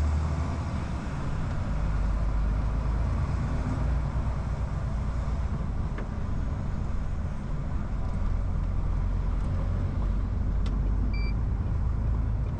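Steady engine drone and road rumble of a lorry heard from inside the cab while driving, with one short beep near the end.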